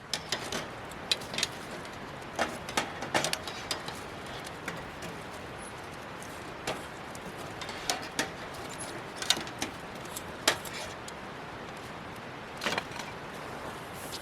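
Pork and vegetables sizzling in a cast-iron skillet over a wood fire. A steady hiss runs under scattered sharp pops, crackles and clinks.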